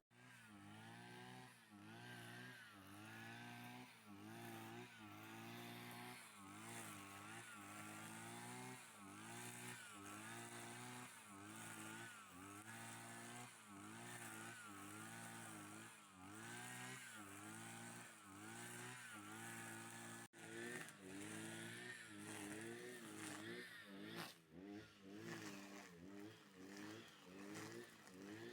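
A car engine revving up and falling back over and over, about once a second, heard faintly.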